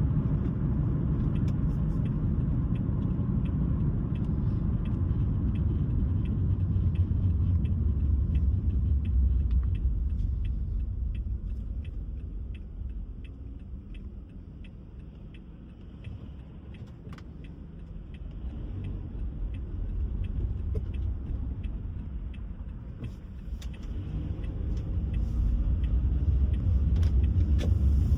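Car driving on the road: a steady low rumble of tyres and engine, with faint regular ticking. It dies down through the middle and builds again near the end.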